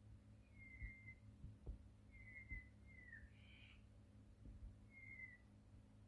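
Faint bird whistles: about five short whistled notes, each dipping slightly in pitch, over a low rumble with a few soft thumps.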